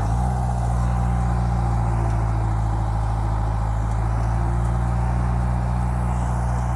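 Bulldozer's diesel engine running steadily, its low hum holding one pitch.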